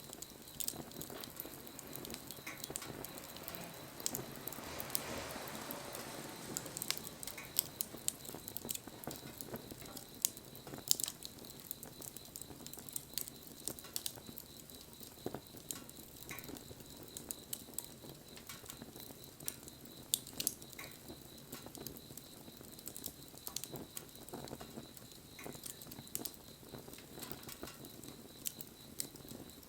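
Wood fire crackling, with scattered sharp pops and snaps and a soft rushing swell about four seconds in.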